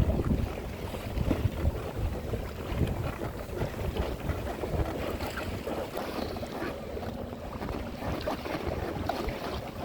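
Wind buffeting the microphone over water splashing against a boat, with small scattered knocks.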